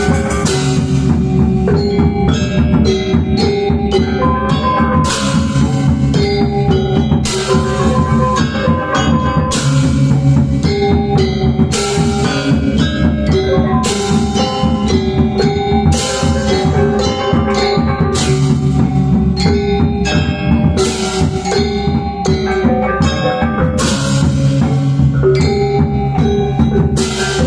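Balinese gamelan gong ensemble playing a tabuh pisan: interlocking bronze metallophone tones over drums and low gongs, with a bright clashing stroke roughly every two seconds.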